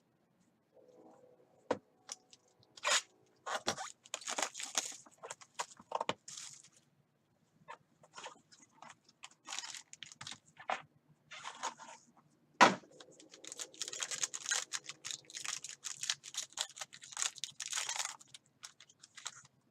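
Trading card packs and boxes being opened and handled: wrappers crinkling and tearing in repeated spells, with several sharp knocks, the loudest about two-thirds of the way through.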